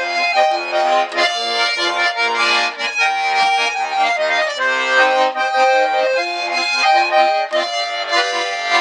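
Accordion playing an instrumental passage of the song, held chords under a moving melody.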